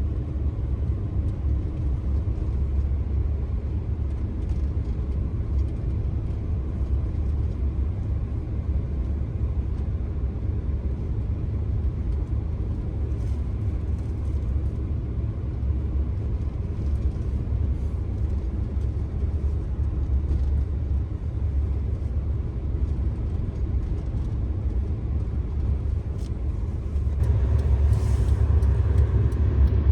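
Steady low rumble of a car driving, getting louder near the end.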